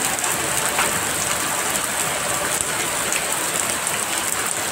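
Heavy rain pouring down and splashing on stone paving, a steady even hiss.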